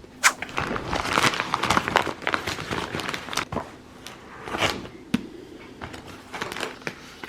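Crinkling and rustling of packaging being handled, in a dense run of irregular crackles.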